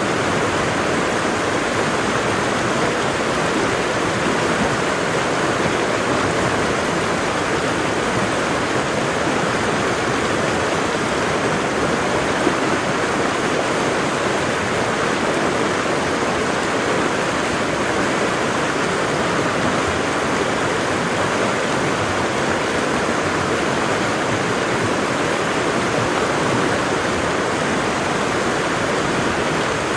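Waterfall: steady rush of falling water, an even noise with no change.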